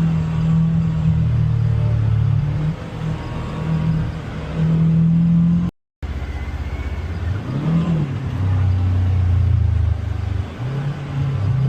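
Polaris Xpedition UTV engine running under varying throttle on an off-road trail, its low note stepping up and down as the driver works the throttle. The sound drops out completely for about half a second near the middle, then the engine picks up again.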